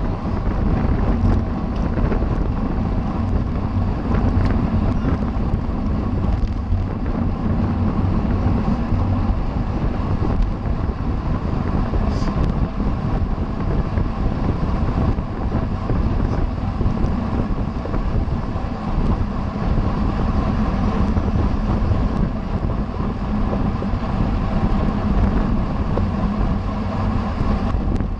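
Steady rush of wind over the microphone of a camera riding on a road bike at race speed.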